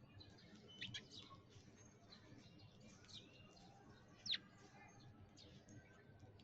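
Small birds chirping faintly in a scattered chorus of short chirps, with one sharper downward-sweeping chirp about four seconds in.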